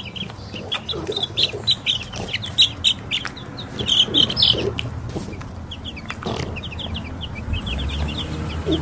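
Chickens clucking and peeping: a dense run of short high calls, several a second, with a few lower clucks now and then.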